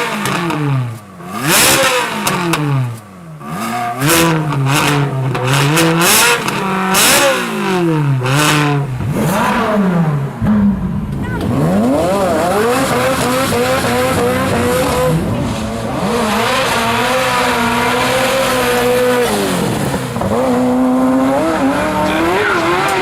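Ferrari V8 engine revving hard, its pitch climbing and dropping quickly again and again, with sharp cracks, for about the first ten seconds. After that it holds a steadier note that rises and falls slowly, dipping briefly near the end before climbing again.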